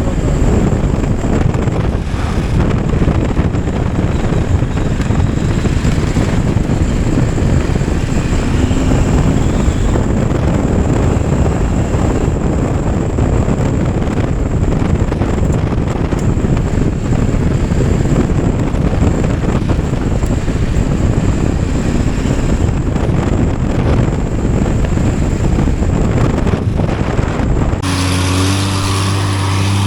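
Motorcycle being ridden: the engine runs under a steady, loud rumble of wind on the microphone. About two seconds before the end the wind noise drops away and a steady low engine hum remains.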